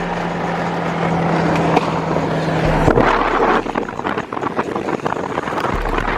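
A motor vehicle's engine running, getting louder up to about three seconds in and then easing off, with wind on the microphone.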